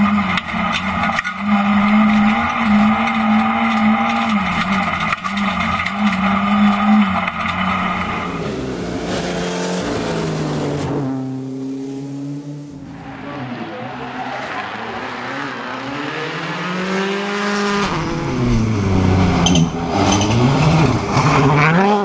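Rally car engine running hard at high revs, its note held nearly level for about eight seconds. After an abrupt change the note drops away, then climbs and falls in pitch several times as the revs rise and fall.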